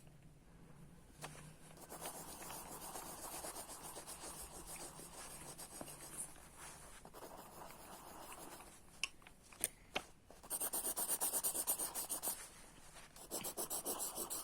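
Colored pencil scribbling on paper, with soft shading strokes at first, then fast back-and-forth strokes. There are two sharp clicks a little after halfway, and the scribbling pauses briefly before starting again near the end.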